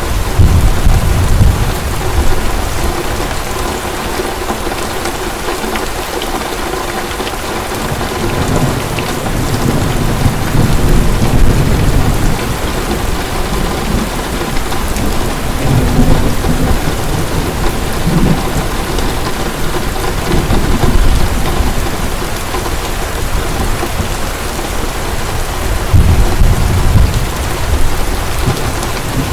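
Heavy rain falling steadily, with distant thunder rumbling in several low swells, the strongest near the start, in the middle and near the end.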